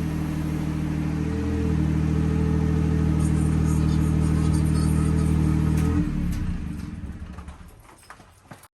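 Honda N-VAN's 660 cc three-cylinder engine running at a steady speed through an HKS street-legal aftermarket muffler. The engine note stops about six seconds in and the remaining sound fades away.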